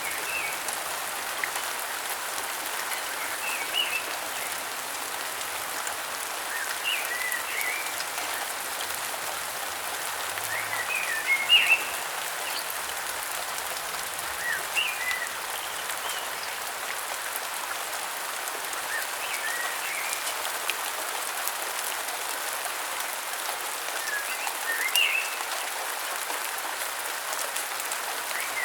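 Steady rain hiss with short clusters of bird chirps every few seconds.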